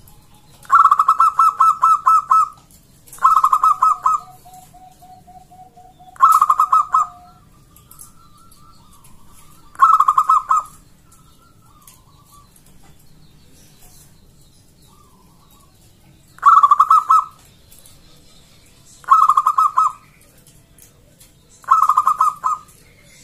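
Zebra dove (perkutut) singing: seven bursts of rapid staccato cooing, each one to two seconds long, separated by short pauses.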